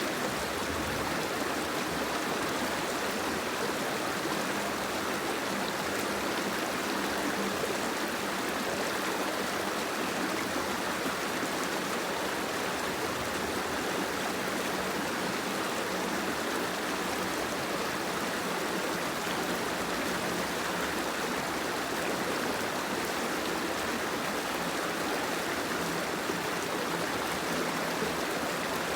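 Steady, even wash of water noise with no breaks or separate events, the sound of soft rain and running water.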